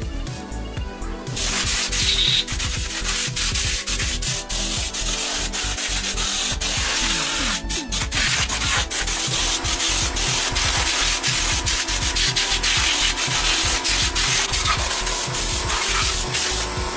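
Steady abrasive sanding during the restoration of a motorcycle part, starting about a second in and stopping just before the end, over background music.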